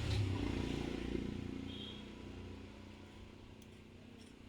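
A motor vehicle's engine hum fading steadily away over about three seconds, leaving faint background noise.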